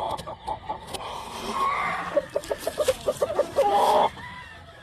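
Gamefowl chickens clucking, with a quick run of short, evenly spaced clucks about halfway through.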